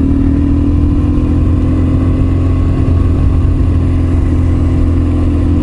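Motorcycle engine running steadily while riding, its pitch holding nearly constant with a slight drop in the first second.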